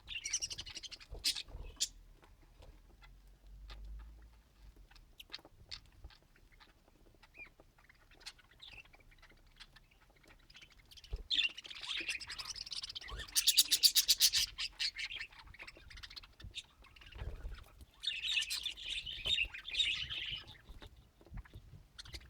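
Budgerigars chattering and warbling in several bursts with quieter gaps between them. A rapid run of sharp clicks comes about two-thirds of the way through.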